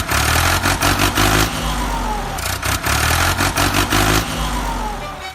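Truck engine running and revving, with a rattling clatter and a whine that slides down in pitch a few times.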